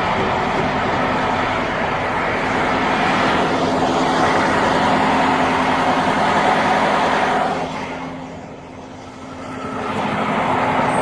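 Roadside traffic noise: vehicles rushing past with a steady engine hum underneath. The rush fades about eight seconds in and swells again as another vehicle approaches.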